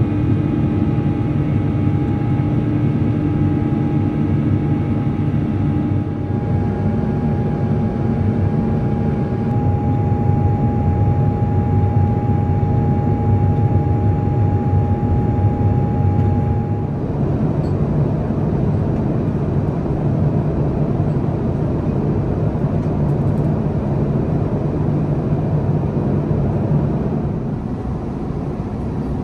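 Steady cabin roar of an Airbus A350-900 in flight, from its Rolls-Royce Trent XWB engines and the airflow. A few thin steady tones ride over it and change or drop out at a couple of points.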